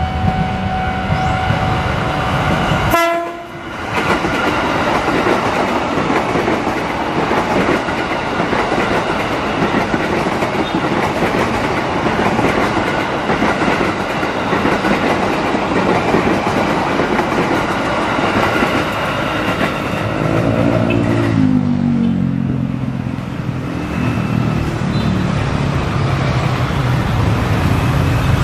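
Ex-JR 205-series electric commuter train passing close by, its wheels running on the rails with a steady clatter and rumble. A steady horn-like tone sounds for the first few seconds.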